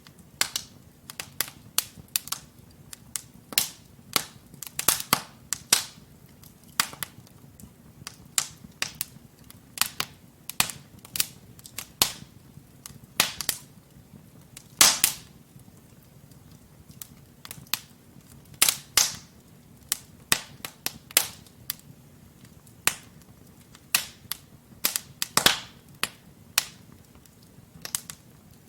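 Wood logs burning in a fireplace, crackling with frequent sharp pops and snaps at irregular intervals over a faint low rumble of the flames.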